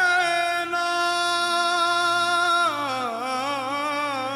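A single voice holding one long sung note, which wavers and then drops lower with a heavy wobble about two and a half seconds in, as in a mournful meme sting.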